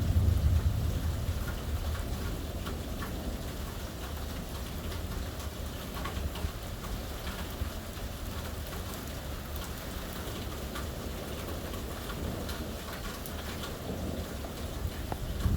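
Steady heavy rain pattering on surfaces during a thunderstorm. A low thunder rumble is loudest in the first second or so and dies away, and another rumble begins near the end.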